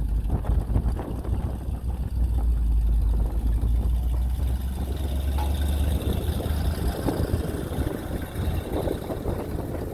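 C50 grain truck engine running, with a deep low rumble that drops away about six seconds in, leaving a rougher, noisier engine sound.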